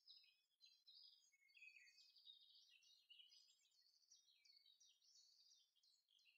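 Faint birdsong: small birds twittering, a quick, unbroken run of short high chirps, some sliding in pitch.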